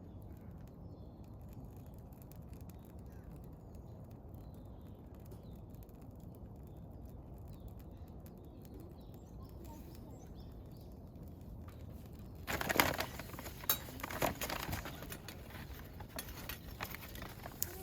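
Quiet outdoor ambience with faint birdsong, then, about twelve seconds in, a run of sharp clicks and knocks.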